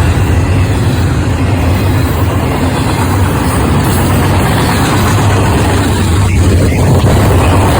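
Loud, steady low rumble of a train at close range, with a diesel engine's hum under the noise.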